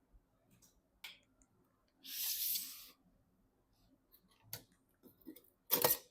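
Hands handling PC components and packaging. There are a few sharp clicks, about a second of high rustling or scraping around two seconds in, and a louder click near the end.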